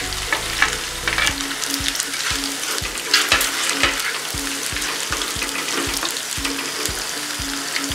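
Boiled potato cubes sizzling in hot oil in a non-stick kadai while a spatula stirs them and scrapes against the pan. A steady electronic music beat runs underneath from about a second in.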